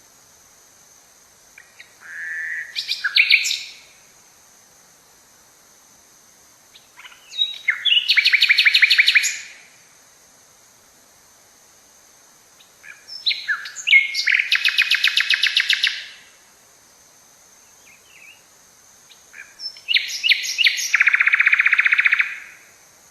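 A songbird singing the same song four times, about every six seconds. Each song is a few short separate notes followed by a fast, even trill lasting about two seconds.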